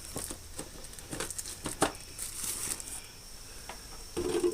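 Miscellaneous shop items being handled and put away: scattered light clicks and knocks with rustling, one sharper knock near the middle.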